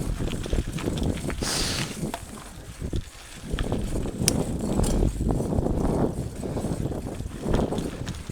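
Mountain bike ridden over a rough dirt trail: tyres crunching and the bike rattling and knocking over bumps in an uneven, jolting rhythm.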